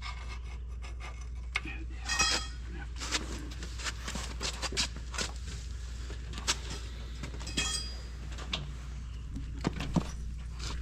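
Metal parts of a corn head clinking and knocking as they are worked into place by hand, with a ringing metal clang about two seconds in; a steady low hum runs underneath.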